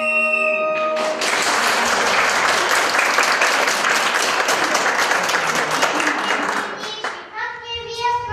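Audience applauding, starting as the music's last held note stops about a second in and dying away after about six seconds; a child's voice begins singing near the end.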